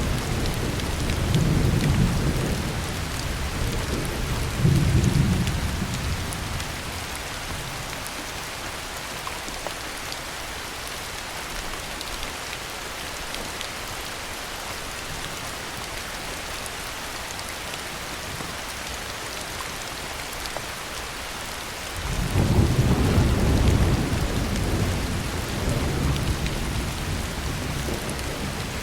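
Steady heavy rain with thunder. Low rolling rumbles in the first five seconds or so die away, leaving the rain alone, then a new peal of thunder breaks in suddenly about 22 seconds in and rumbles on, fading toward the end.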